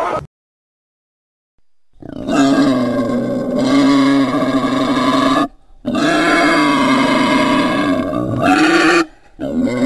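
Made-up sound-effect calls for a Scutosaurus, an extinct Permian reptile: after about two seconds of silence, two long, deep, pitched roaring calls of about three seconds each, with a short break between, and a third call starting near the end.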